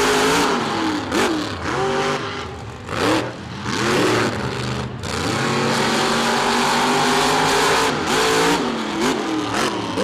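Monster truck engines racing at full throttle. Their pitch drops and climbs again several times as the drivers lift off and get back on the gas.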